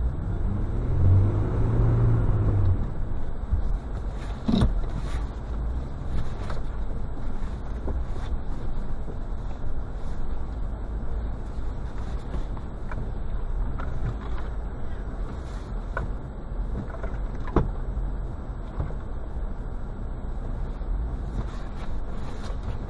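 Mitsubishi Pajero's engine running, revving up and back down in the first few seconds, then a steady low drone with a few sharp knocks scattered through.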